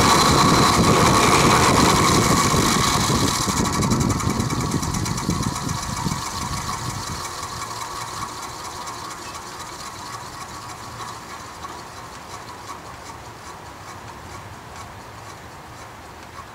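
Vintage Penncrest 20-inch three-speed box fan running on high with a rattling hum, like a diesel engine, then switched off a couple of seconds in and coasting down, its rattle and hum fading gradually. The rattle persists after oiling although the motor has no play and no blade is loose; the owner wonders whether the bearings are grooved.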